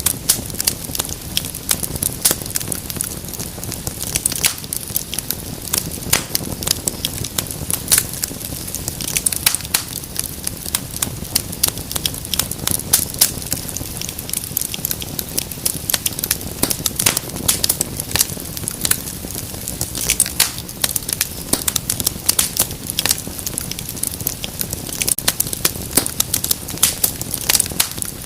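Wood fire crackling in a fireplace: dense, irregular sharp pops and snaps over a steady low rumble of the flames.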